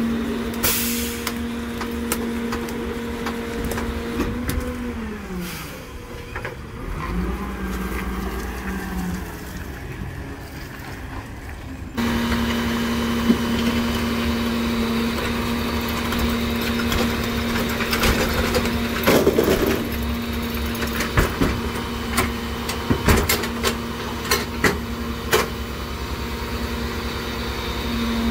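NewWay rear loader garbage truck running with a steady hum that slides down in pitch about five seconds in. The sound cuts abruptly near twelve seconds, the hum comes back, and a run of bangs and clatter follows in the second half as trash is loaded.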